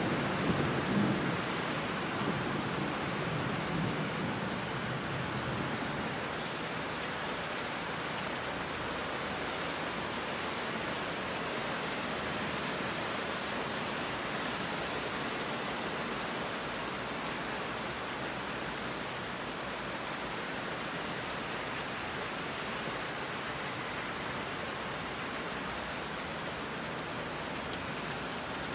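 Heavy rain falling steadily on the ground and leaves. A low rumble of thunder dies away over the first few seconds.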